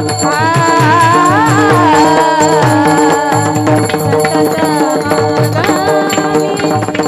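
Marathi devotional kirtan singing: a girl's voice sings a long, wavering melodic line over steady held instrumental tones and a repeating drum beat.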